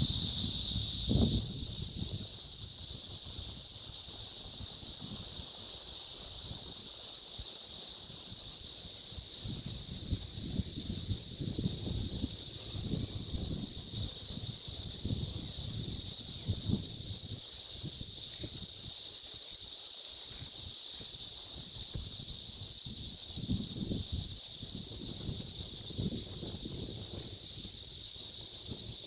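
Dense chorus of cicadas from a mass emergence: a loud, steady, high-pitched buzzing drone that never breaks, with soft low rumbles underneath.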